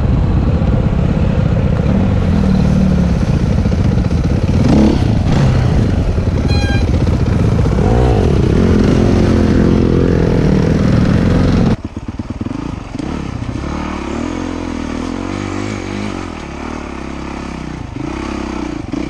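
Dirt bike engine running and revving up and down in pitch under load. About twelve seconds in, the sound cuts abruptly to a quieter engine.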